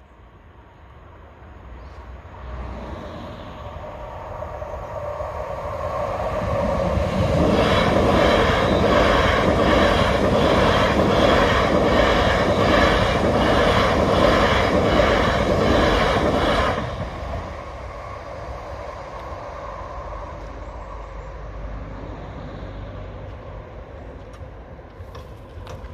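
Class 360 electric multiple unit approaching and passing over a level crossing: its sound builds up, then the wheels clatter with a regular beat about twice a second, and the sound drops off suddenly as the last coach clears, leaving it fading away. Near the end come a few sharp clicks from the barrier's hand pump being worked.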